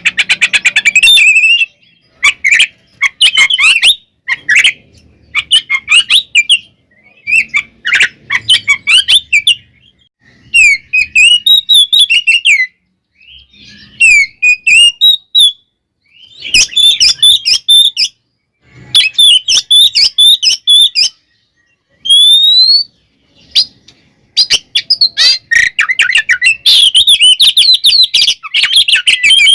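Oriental magpie-robin (kacer) singing loudly in short bursts of quick, varied whistled phrases with brief pauses between them. A fast rattling chatter fills the last few seconds, and a single rising whistle comes about two-thirds of the way through.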